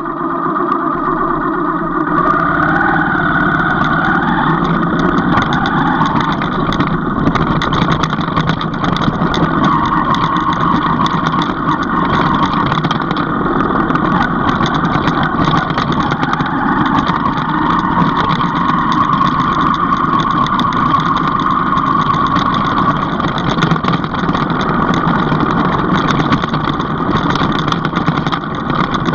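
Vehicle engine running continuously while travelling, its pitch rising and falling gently now and then.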